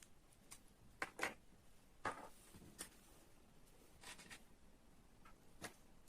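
Faint, scattered clicks and taps of small parts being handled, about half a dozen of them, with a short scraping rustle about two seconds in.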